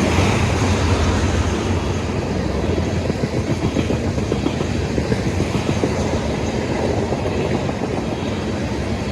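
Train rolling past in a steady, continuous rumble of steel wheels on the rails, with a rhythmic clickety-clack over the rail joints.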